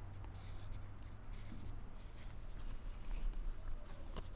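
Faint, scattered scratchy rustling over a low, steady hum in a small room.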